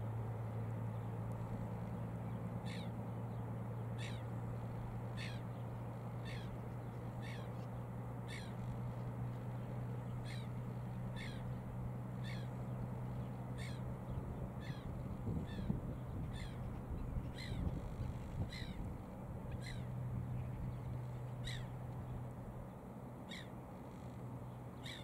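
A bird calling over and over in short, evenly spaced calls, about one a second, above a steady low hum.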